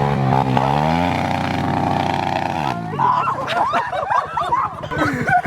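Dirt bike engine revving, its pitch dipping and rising, then held steady for about a second and a half before cutting off abruptly. A tangle of overlapping high, wavering yells follows.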